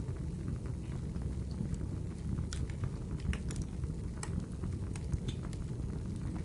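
Wood fire crackling in a fireplace: a steady low rumble of flames with scattered sharp pops and snaps from the burning firewood, busiest in the middle.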